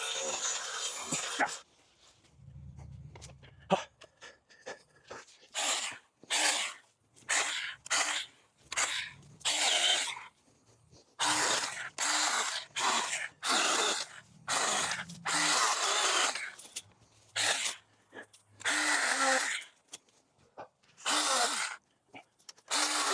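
Cordless battery-powered cutting tool triggered in short bursts of about half a second, over and over, roughly one a second, cutting back overgrown brush.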